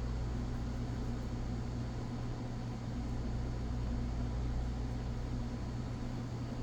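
Steady low hum with a faint even hiss, like a fan or air conditioner running in a small room; a single sharp click right at the end.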